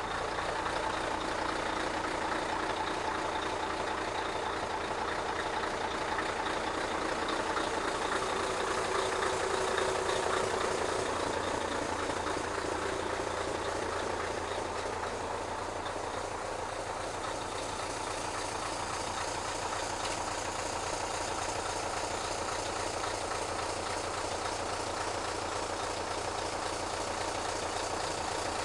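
Scania R143 truck's 14-litre V8 diesel idling steadily, swelling a little louder about ten seconds in before settling back.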